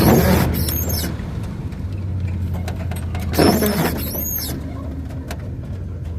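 1992 Dodge B250 van driving, its engine and road noise making a steady low drone. Two louder rushing sounds with a high squeak come near the start and again about three and a half seconds in.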